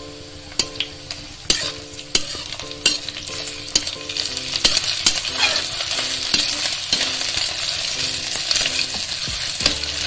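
Onions, green chillies and ginger-garlic paste frying in mustard oil in a metal wok: a steady sizzle, with the spatula scraping and knocking against the pan as it stirs. The sizzle gets louder about halfway through.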